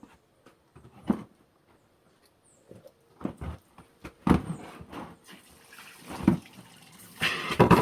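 Water splashing in short, separate bursts, then a louder, steady rush of running water near the end.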